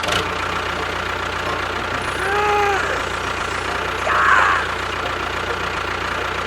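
A motor running steadily with a constant low hum, with a short rising-then-falling tone a little over two seconds in and a brief louder burst a little past four seconds.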